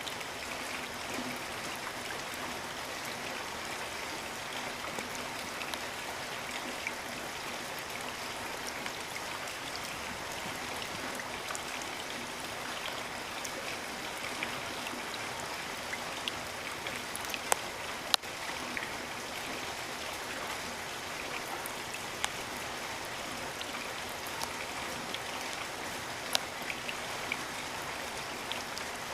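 Steady rain falling, with scattered louder drops striking close by, the sharpest a little past the middle and a few near the end.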